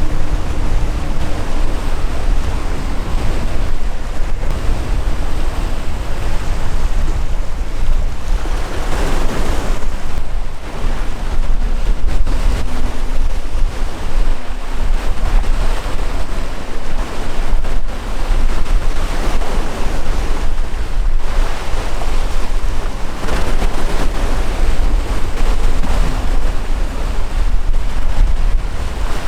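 Sea waves washing and surging under a steady low rumble of wind on the microphone. The wash swells louder about nine seconds in and again near the end.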